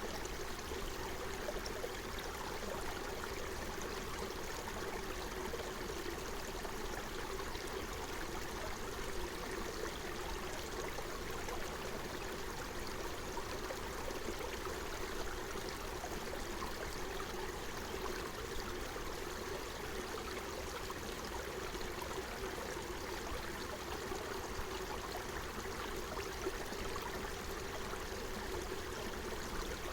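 Forest stream flowing steadily.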